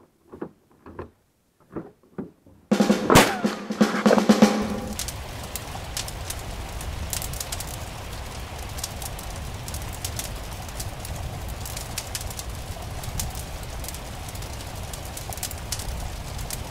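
A few clicks and knocks from a pickup truck's door handle and latch as the door is opened. Then a sudden louder burst, followed by a campfire crackling, with sharp pops at irregular intervals over a steady hiss.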